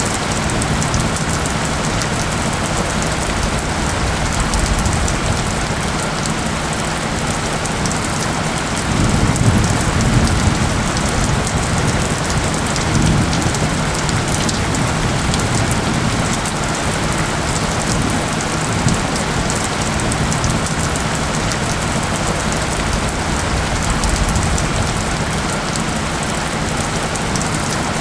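Steady rain, a dense even hiss of drops falling on surfaces, with a low steady tone underneath from the soundscape's isochronic tones. The low end swells briefly about a third of the way in.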